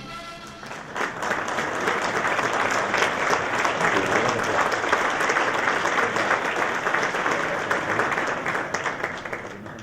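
Audience applauding. The clapping breaks out about a second in and tapers off near the end.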